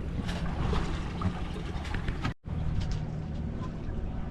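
Steady rumbling noise of a sailboat under sail, wind on the microphone and water along the hull, with a few faint clicks from the boat. The sound drops out for a moment about halfway through.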